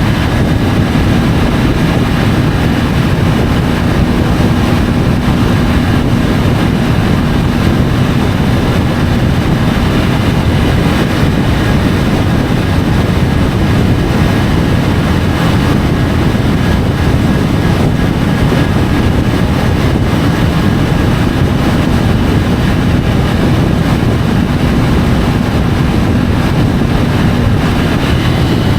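Triumph Tiger 850 Sport's three-cylinder engine running at a steady cruise, under a loud, constant rush of wind on the bike-mounted microphone.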